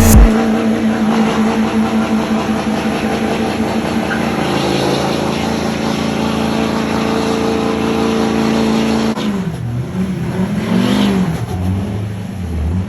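Pickup truck engine held at steady high revs under load during a burnout, over a hiss of noise. About nine seconds in it drops off, then revs up and down a few times.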